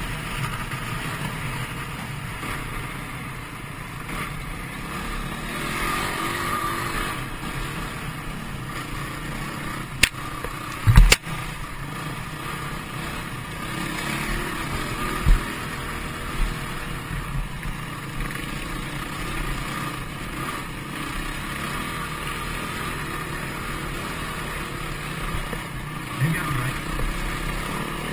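Dirt bike engine running steadily, its pitch wavering, with a couple of sharp knocks about ten and eleven seconds in.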